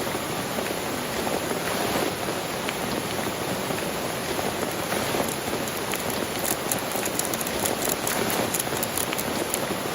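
Heavy rain falling steadily, with many individual drops ticking through the even hiss.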